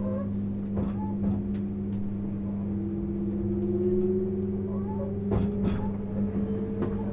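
Inside the cabin of a JR 651 series electric train running on the line: a steady low hum, with a whine that rises slowly in pitch from a few seconds in as the train gathers speed. A few sharp knocks, the wheels over rail joints, come about a second in and again about five and a half seconds in.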